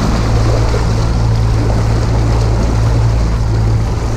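Mercury 200 Pro four-stroke outboard motor running steadily, a constant low hum under a steady rushing noise.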